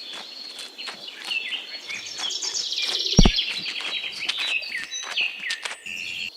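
Small birds chirping and trilling, several calls overlapping, with one low thump about three seconds in.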